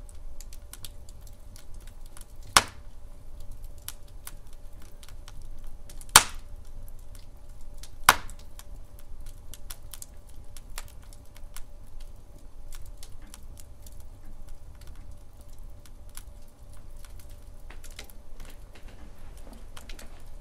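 Wood fire burning in a fireplace, crackling steadily with many small pops and three louder sharp cracks, about two and a half, six and eight seconds in.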